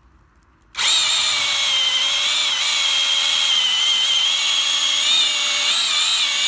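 Small 12 V battery-powered mini chainsaw starting up about a second in and running steadily through the final cut of a tree trunk. Its electric motor and chain give a high whine whose pitch wavers slightly as the chain bites into the wood.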